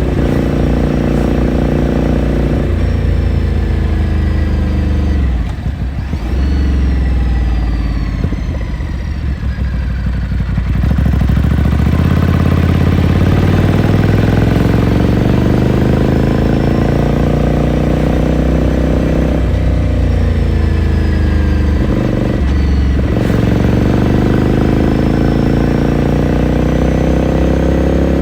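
Ducati Scrambler Sixty2's air-cooled L-twin engine heard from the saddle while riding. Revs drop and the bike slows about five seconds in, then it pulls away, revs climbing through the gears with short breaks for gear changes near 20 and 23 seconds.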